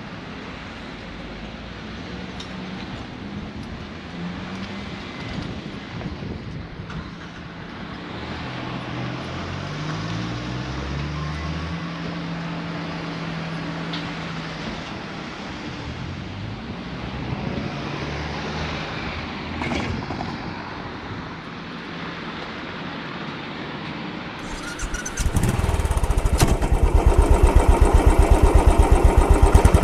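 Quieter vehicle engine noise with shifting pitch. About 25 seconds in, a Royal Enfield Bullet 500's single-cylinder engine starts and settles into a loud, even idle.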